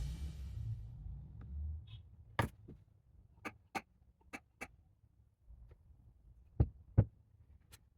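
Scattered light clicks and taps, about eight in all, with two louder knocks near the end, as of small parts being handled on a workbench. The tail of a music track fades out at the start.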